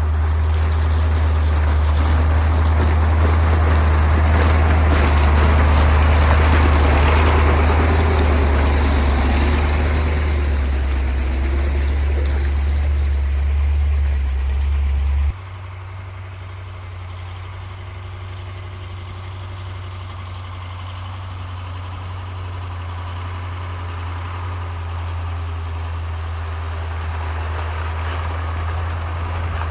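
1985 KAMAZ 4310 6x6 truck's V8 diesel engine running as it drives off-road, with a steady low drone and broad rushing noise above it. About halfway through, the sound drops abruptly to a quieter level, then slowly grows louder again.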